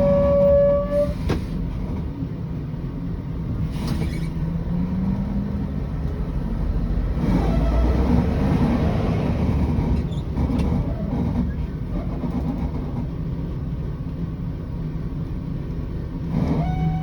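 Scania 113 bus's diesel engine running, with a swell in noise about seven to nine seconds in. A short high steady whine sounds near the start and again near the end.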